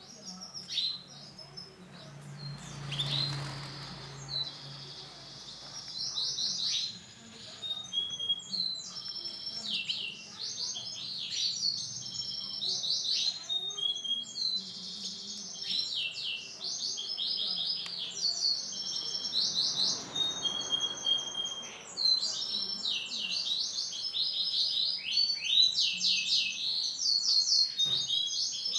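Male canary singing a long continuous song of fast rolling trills and repeated chirping phrases.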